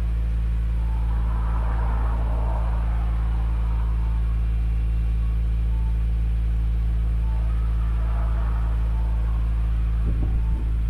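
Subaru WRX S4 exhaust idling steadily through an EXAS EVO Tune aftermarket muffler, a deep low rumble while the engine warms up from a cold morning start.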